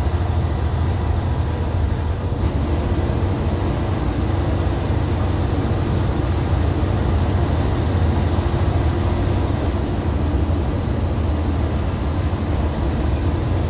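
Hyundai D6CC Powertec 380 diesel engine of a Hyundai Universe Comfort coach running steadily, a loud low drone. A higher steady hum in it fades about two seconds in and comes back near the end.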